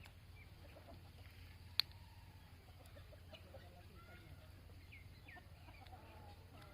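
Faint bird calls, likely fowl, scattered over a low steady hum, with one sharp click just under two seconds in.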